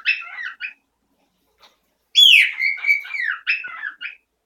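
A pet bird whistling its loud song: the tail of one phrase right at the start, then about two seconds in a full phrase that opens with a downward-sliding whistle and breaks into quick, choppy warbling notes.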